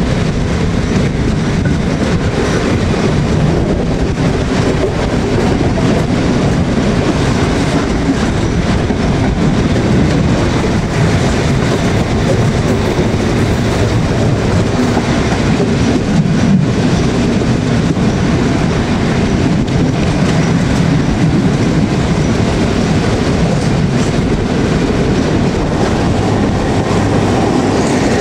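Historic passenger train hauled by the E.656.023 electric locomotive, running along the line: a steady, loud rolling noise of wheels on rails with some clickety-clack.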